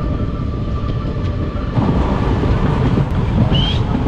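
Passenger train running on the track, heard from aboard: a steady loud rumble of wheels on rails. The sound shifts in texture about two seconds in, and a short high rising chirp comes near the end.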